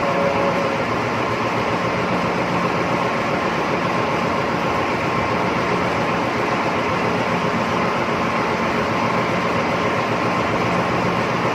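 Steady drone of ship's machinery: a constant noise with a few steady hum tones, unchanging throughout.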